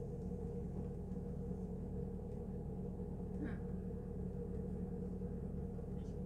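Steady low hum and rumble of a regional train, heard from inside the passenger carriage while it stands or barely moves, with a brief high squeak about halfway through.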